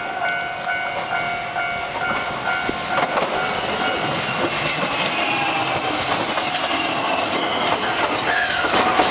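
Japanese level-crossing alarm ringing steadily while a Shizuoka Railway A3000-series electric train runs past close by. Its wheels clatter over the rail joints, and a whine falls in pitch near the end.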